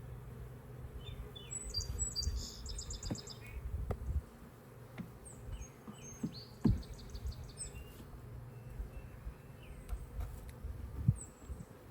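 Honeybees buzzing around an open hive in a steady low hum, with a songbird singing twice in short trilled phrases. A couple of sharp knocks come about halfway through and near the end.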